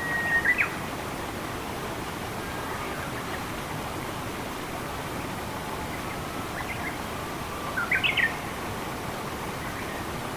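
Steady rushing water hiss, with short birdsong chirps over it, a quick phrase right at the start and another about eight seconds in.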